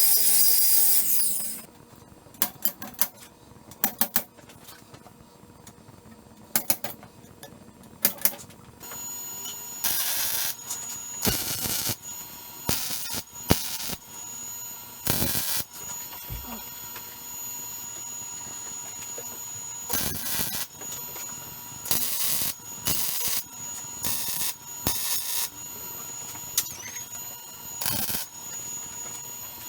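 A saw cutting stops about a second and a half in, then a few clicks and clanks, then a welder laying tack welds on steel: about a dozen short crackling bursts, each under a second, over a steady faint high tone.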